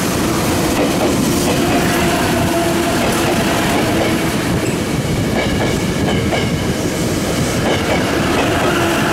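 Tokyo Metro 7000 series electric train passing at speed close by: loud, steady running noise of its wheels on the rails.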